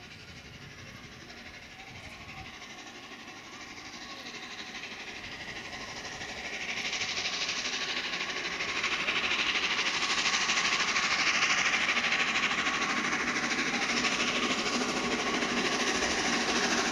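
Steam locomotive 60163 Tornado, a three-cylinder Peppercorn A1 Pacific, approaching with its train, its hiss and running noise getting steadily louder over the first nine seconds or so and then staying loud.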